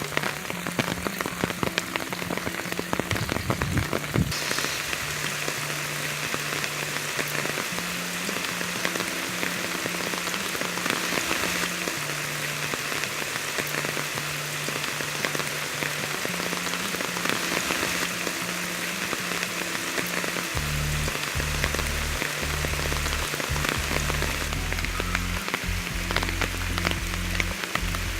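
Monsoon rain falling steadily: a dense, even hiss with many small drop hits scattered through it. The texture of the hiss changes slightly about four seconds in.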